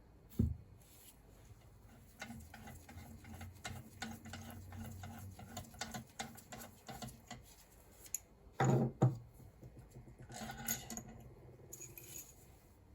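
Metal clicking and clinking of bolts and hand tools being fitted into a BMW R1200 engine crankcase, with a dull thump near the start, a long run of quick clicks, and a louder clatter about two-thirds of the way through.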